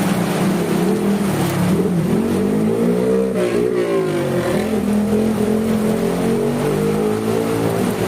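A motor vehicle engine running over steady rain hiss, its pitch dipping and rising again about halfway through.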